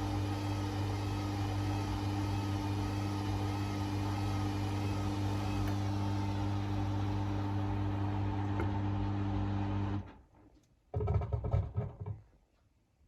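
Hoover Rapid 44 washing machine's motor running with a steady hum, then cutting off suddenly about ten seconds in; about a second later a short, louder rumble lasts for about a second before the machine falls quiet.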